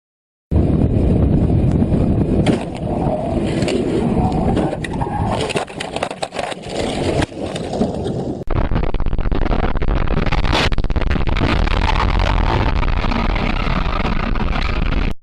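Loud rumbling road and wind noise of a moving vehicle, with scattered knocks and scrapes. The sound changes abruptly about eight and a half seconds in.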